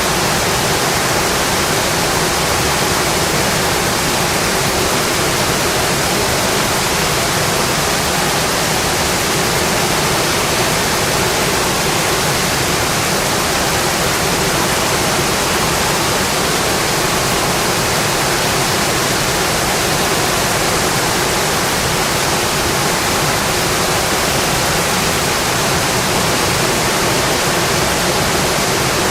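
Steady, heavy rain drumming on a metal roof, an even hiss with no let-up.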